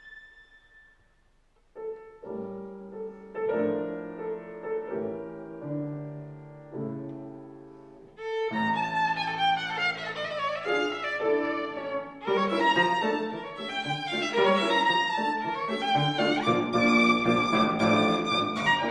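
Violin and piano. A held high violin note fades out, followed by a brief pause and then several seconds of piano chords. About eight seconds in, the violin comes back in with fast running passages over the piano, louder than before.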